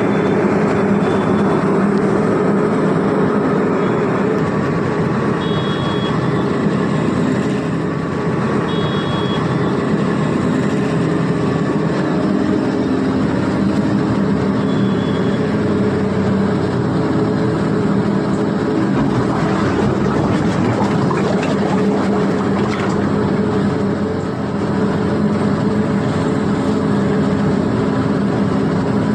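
Engine of a SANY deep-foundation construction machine running steadily.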